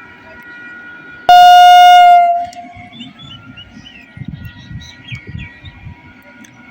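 ICF MEMU electric train's horn giving one very loud blast of about a second, over the low rumble of the train on the track.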